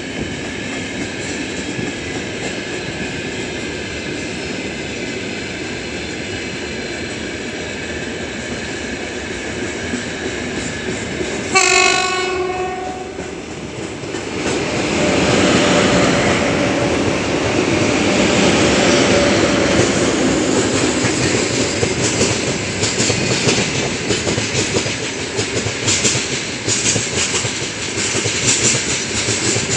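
Freight trains of gondola wagons rolling past on adjacent tracks. About twelve seconds in there is a short horn blast from the oncoming 2ES5K 'Ermak' electric locomotive, which then passes loudly. Its wagons follow with a run of clicks over the rail joints.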